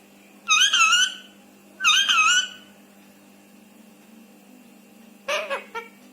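Indian ringneck parrot vocalising: two drawn-out, high-pitched calls with a wavering pitch about half a second and two seconds in, then a few short, clipped calls near the end.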